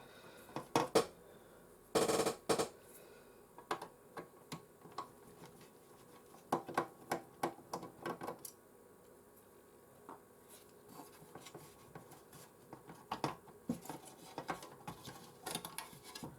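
Scattered clicks and knocks of small hard parts being handled and set down on a workbench, the loudest cluster about two seconds in: the PlayStation 4's heatsink and cooling fan being handled for cleaning.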